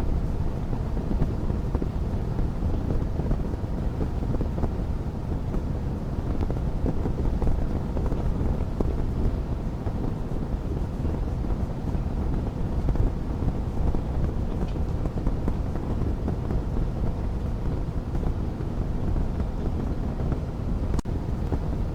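Fire burning in a fireplace: a steady deep noise with very little crackling, just a faint pop midway and one sharp crackle near the end.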